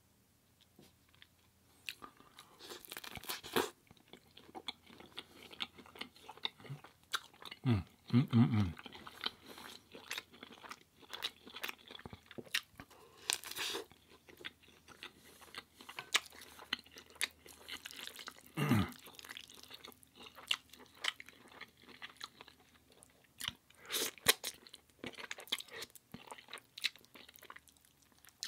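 Close-miked chewing and crunching of crispy food, starting after about two seconds of near quiet, with loud crunchy bites a few seconds in, about halfway through and near the end. Two brief low falling sounds stand out, at about eight and nineteen seconds.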